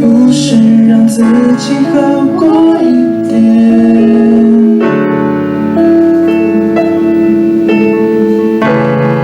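A live band playing a slow song led by keyboard, with bass and guitar holding long chords. A voice sings a wavering line in the first few seconds, then the keyboard carries the melody.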